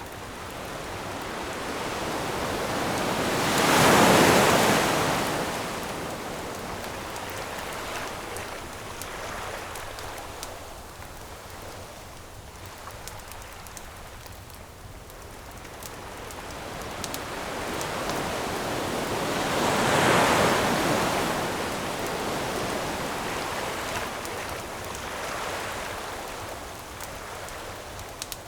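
Ocean waves washing on the shore: two big waves swell up and break, about a third of the way in and again about two-thirds in, with the surf receding between them. Light crackling from a wood campfire runs underneath.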